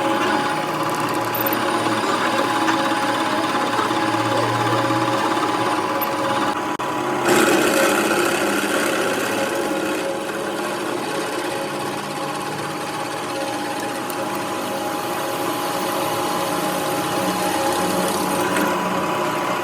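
Workshop machinery running steadily with a continuous mechanical clatter and a steady hum. About seven seconds in a louder, harsher hiss-like noise joins it, easing off near the end.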